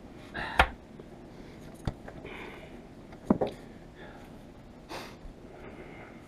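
Handling noises as a windscreen and its rubber seal are worked into a car's frame: three sharp knocks in the first three and a half seconds, the last one doubled, with short breaths and sniffs in between.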